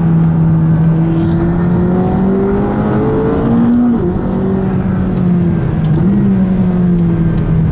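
McLaren 570GT's twin-turbo V8 heard from inside the cabin, its note rising slowly, then jumping and dropping in pitch about four seconds in, and easing down slightly near the end, over steady road rumble.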